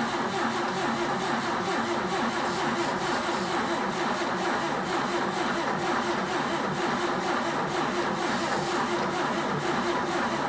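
Jeep M170's four-cylinder engine cranked over steadily on the starter without firing or catching: it is flooded with fuel.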